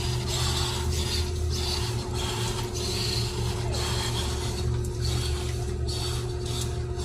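Radio-controlled truck driving on wet ground in repeated throttle surges, its motor and tyres giving a rasping hiss with each push over a steady low hum.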